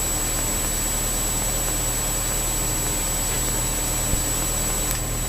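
Steady electrical interference noise on a GoPro recording made in a Garmin G1000-equipped Cessna 172: a loud, even hiss with a constant high whine and a low hum, with a single click about four seconds in. The noise shows up with the G1000 aircraft but not in a conventional-panel C172 or a PA-28.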